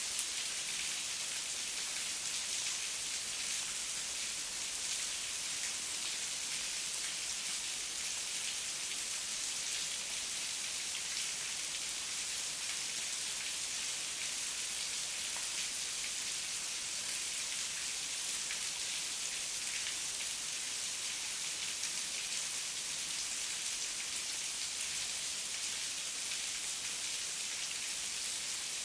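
Heavy rain falling steadily, a dense even hiss with many fine drop patters on surfaces.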